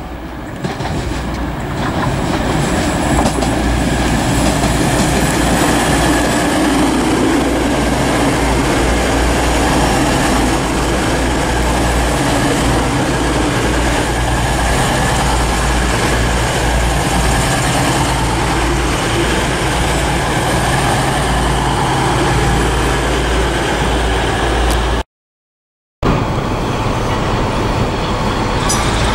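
East Midlands Trains diesel passenger train passing on the far line, its engines giving a steady low hum over the wheel and rail noise. The sound drops out completely for about a second near the end.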